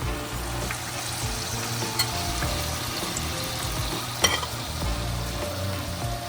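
Battered vegetable fritters sizzling in hot oil as they deep-fry, a steady crackling hiss over the low hum of a kitchen exhaust fan. Two sharp clicks come about two and four seconds in.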